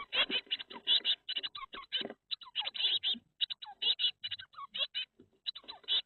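Blue tit chicks begging: a dense stream of rapid, high, overlapping chirps, with scratchy rustling beneath.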